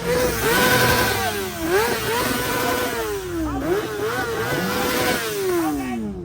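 Car engine revved hard and held at high revs, dropping and revving back up twice before the revs fall away near the end.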